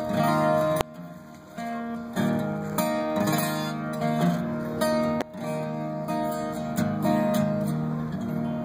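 Acoustic guitar playing the song's closing chords without vocals, a chord struck about once a second and left to ring.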